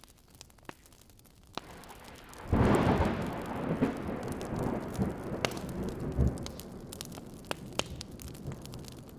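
Wood fire crackling with scattered sharp pops; about two and a half seconds in a clap of thunder breaks suddenly and rumbles on, slowly fading, with rain falling under it.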